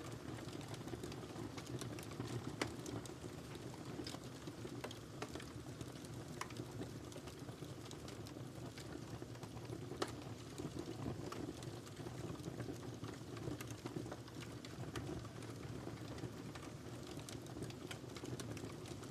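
Wood fire burning in a fireplace: a steady low rush of flame with irregular crackles and snaps, and a couple of louder pops.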